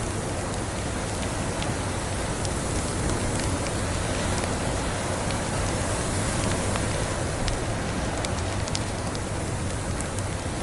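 Steady rushing hiss of a blizzard ambience layered with a wood fire crackling, with scattered small pops that come more often in the last few seconds.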